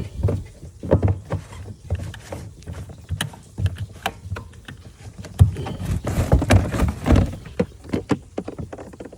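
Knocks and clatter of an outboard motor being worked at to start it, with the engine never catching. The starter is not engaging. The heaviest thumps come about two-thirds of the way in.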